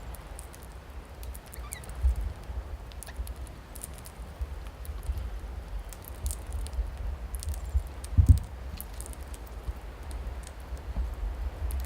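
Birds pecking at feed: irregular light, sharp ticks and patter, over a steady low rumble, with a faint short chirp about two seconds in and a dull thump after about eight seconds.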